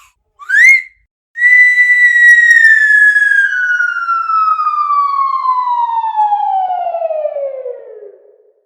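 A whistle-like tone in a cartoon sound effect: a quick upward slide, then after a short gap one long whistle that starts high and slowly falls in pitch, the classic falling-object glide, fading out near the end.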